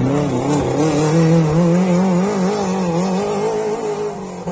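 Rally car engine running hard at high revs, its pitch wavering up and down, then dropping sharply near the end as the car passes by.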